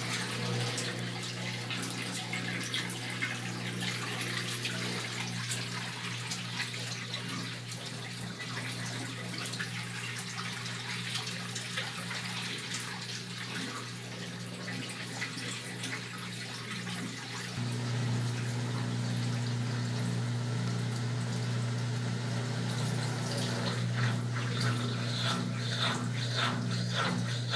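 Brastemp Tira Manchas Pro washing machine running, water splashing and pouring over a steady motor or pump hum. About two-thirds of the way through, the hum steps up and grows louder.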